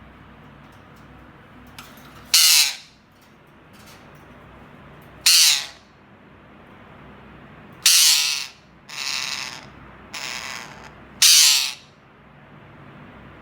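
Pet green parrot giving harsh, loud calls, about half a second each, six in all. Four loud calls come a few seconds apart, with two softer ones between them in the middle, over a steady background hiss.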